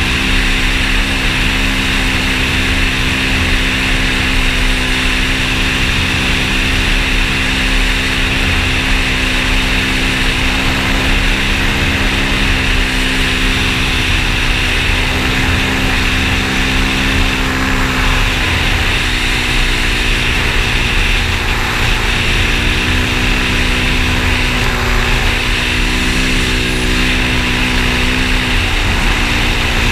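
Engine of a moving vehicle running steadily, its pitch shifting slightly a few times and dipping just before the end, over a low rumble of wind and road noise.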